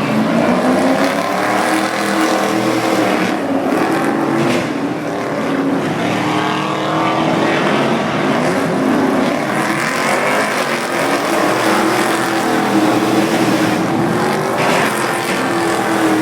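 Truck engines running, their pitch rising and falling again and again as the trucks speed up, shift and drive past.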